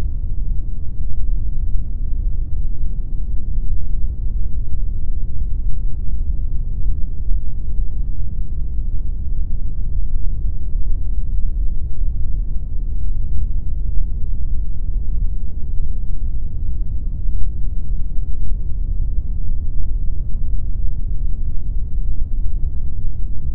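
Steady pink noise, an unchanging hiss weighted heavily toward the low end and fading out above a few kilohertz.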